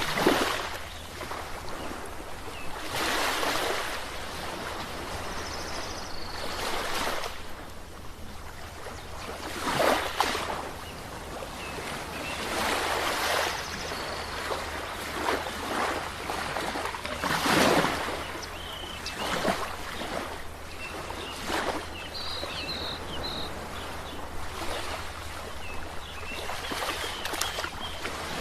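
Sea waves breaking and washing onto a shore, surging in wide swells every few seconds over a constant wash of surf, the loudest swell a little past halfway.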